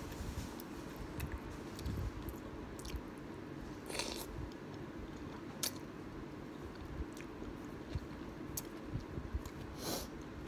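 Close-miked chewing of kimchi ramen: wet mouth sounds with many small clicks and light crunching of kimchi. Two brief, louder noisy sounds come about four seconds in and near the end.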